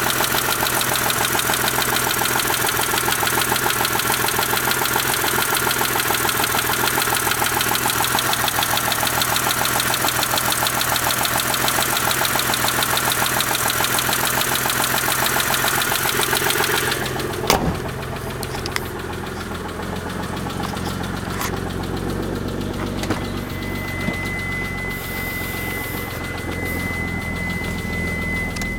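Mitsubishi 3000GT VR4's twin-turbo V6 idling with a fast, even ticking from the top end, one tick more distinct than the rest: more pronounced than ordinary lifter tick but not rod knock, and the owner suspects one collapsed hydraulic lifter. About two-thirds of the way through there is a sharp knock, after which the ticking is much fainter under the idle, and a steady high-pitched tone comes in near the end.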